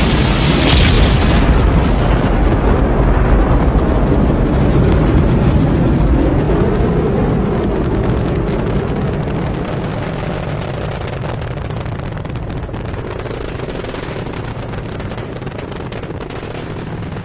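Rocket launch roar: a loud, deep rumbling roar with crackle that slowly fades over the second half as the rocket climbs away.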